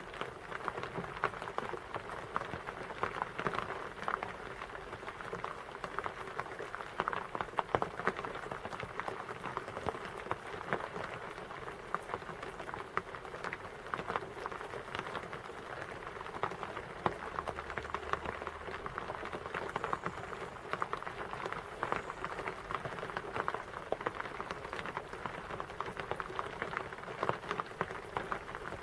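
Steady rain falling, with many drops pattering on a surface in a dense, even patter.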